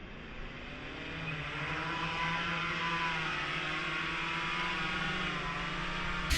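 DJI Flip drone's propellers whirring, rising in pitch and getting louder over the first couple of seconds, then holding a steady hum.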